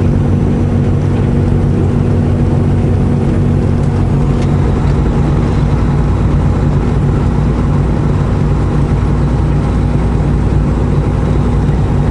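Semi-truck diesel engine running at a steady pitch under load, heard from inside the cab, with road noise underneath.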